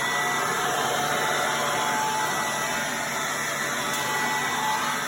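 Small handheld blower running steadily, a rush of air with a faint motor whine, clearing debris off cardboard on the shop floor.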